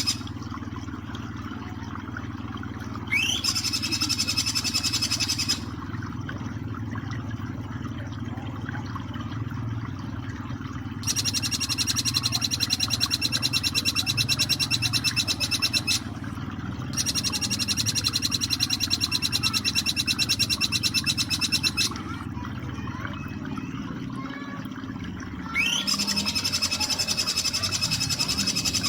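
Jing-jing petulak birdsong in its rapid-fire 'nembak' style: four long runs of very fast repeated high notes, each lasting a few seconds, over a steady sound of flowing water.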